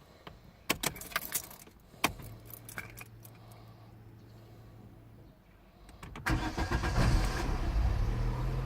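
Keys jangling and clicking in the ignition, then a low steady hum for a few seconds. About six seconds in, the Zafira B's 1.6 petrol four-cylinder engine cranks, catches and settles into a steady run.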